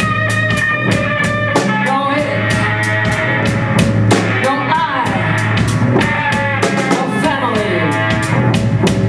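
Experimental rock music played live: a steady drum beat of about four strokes a second over a held low bass note, with a distorted instrument sliding down in pitch a few times.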